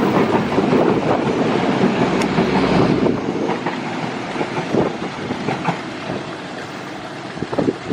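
Passenger train running past on the rails, its wheels rumbling loudly, then fading after about three seconds as it moves away, leaving a few scattered clicks and knocks from the wheels and track.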